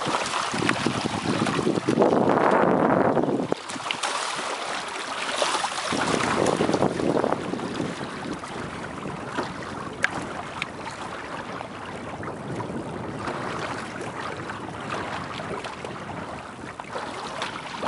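Wind buffeting the microphone and water rushing and splashing along the hull of a sailing outrigger kayak. The noise swells and eases in gusts, loudest a couple of seconds in.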